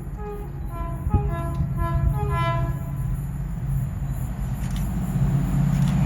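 A train approaching, louder and louder. In the first three seconds a run of short horn-like tones sounds at changing pitches, then a low engine drone builds.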